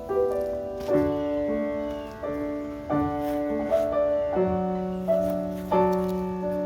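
Background piano music: a slow series of struck chords and notes.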